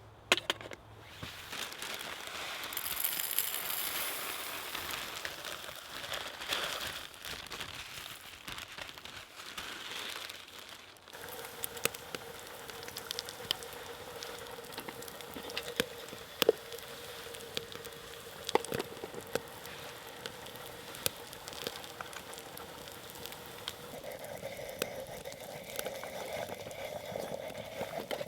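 Small wood fire, started from fatwood shavings, crackling and hissing with many sharp pops. About eleven seconds in the sound changes abruptly, and a steady tone runs under the crackling from then on.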